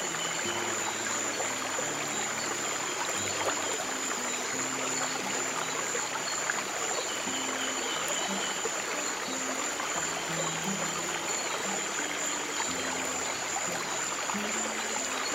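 Steadily running stream water with slow, soft low piano notes held beneath it, and a faint steady high-pitched tone.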